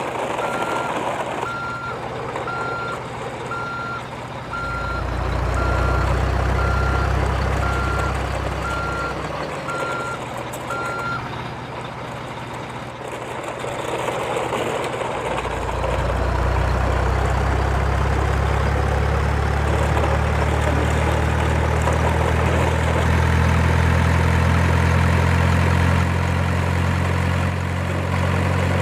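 Truck reversing alarm beeping at an even pace for about the first eleven seconds over a low engine hum. The truck's engine then runs steadily and louder from about halfway on.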